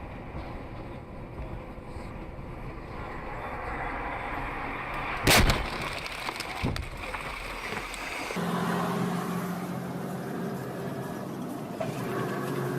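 Car interior road and engine noise, broken about five seconds in by one loud bang of a vehicle collision and a smaller knock just after; then, after a cut, a steady low engine hum.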